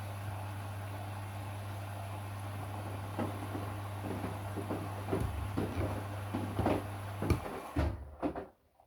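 Washing machine running with a steady low hum, joined from about three seconds in by irregular knocks and clunks that grow louder; everything stops abruptly near the end.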